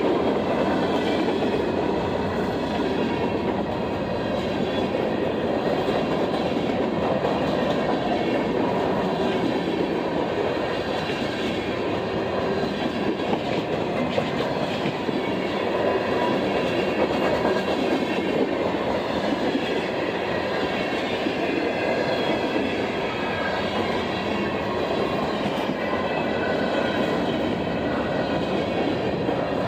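Train rolling past, with a steady rumble of wheels on rail and the clickety-clack of cars passing over the rail joints.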